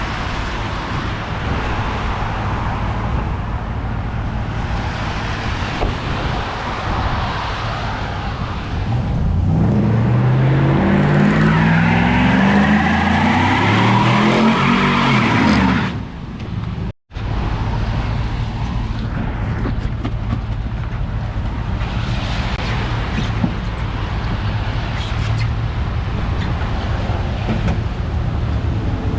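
Motor vehicle on the move: steady engine and road noise. About a third of the way in, an engine revs up in several rising sweeps over some six seconds. Just past the middle the sound cuts out for a moment, then the steady driving noise resumes.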